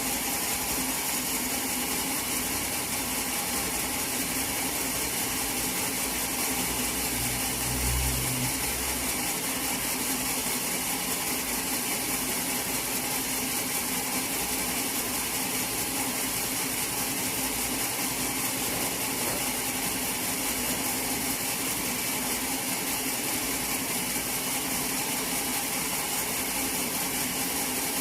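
Sawmill machinery running steadily with an even mechanical hum, with one brief low thump about eight seconds in.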